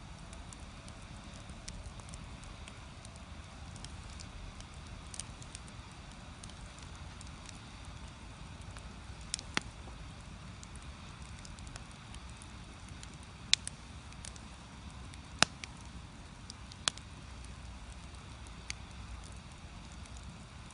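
Wood fire burning in a Korean agungi firebox: a steady low rumble, with several sharp cracking pops from the burning logs in the second half.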